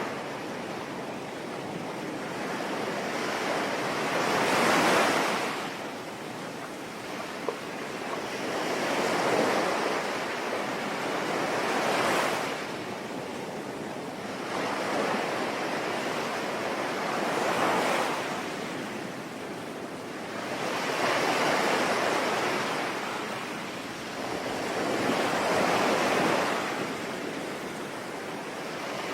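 Ocean waves breaking on a shore, about six surges rising and falling every few seconds over a steady hiss.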